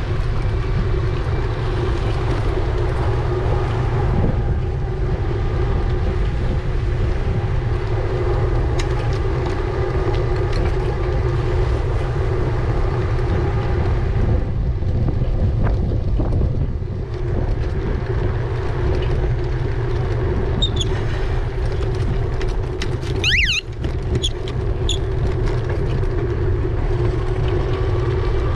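Riding an e-bike: wind rushing over the microphone with tyre rumble, and a steady hum from the motor. About two-thirds of the way through comes a brief high chirp that rises in pitch, with a few short high notes around it.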